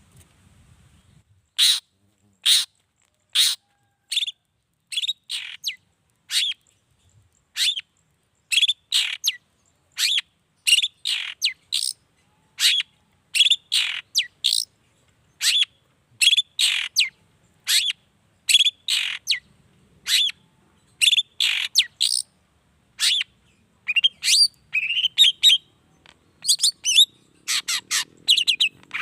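Long-tailed shrike (cendet) calling loudly in a long series of short, sharp, high notes, about one or two a second and some in quick pairs. The notes come faster and more tangled near the end.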